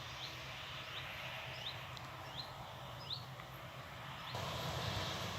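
A small bird giving short rising chirps, about one every 0.7 seconds, over a steady low hum of distant farm machinery. About four seconds in, a louder steady rushing noise comes in and carries on.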